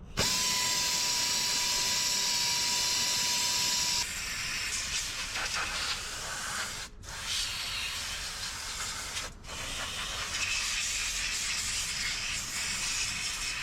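Hiss of a pressurised spray or air jet in workshop parts work. It starts abruptly and holds a steady whistle for about four seconds, then goes on without the whistle, cutting out briefly twice.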